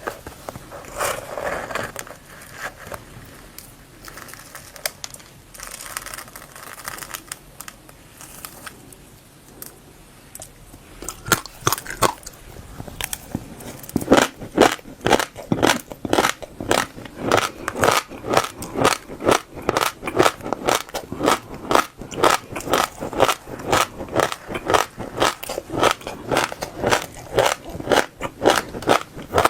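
Close-miked chewing of passion fruit seeds: soft, scattered crunching for about the first ten seconds, then a steady, quick rhythm of crisp crunches, a few each second.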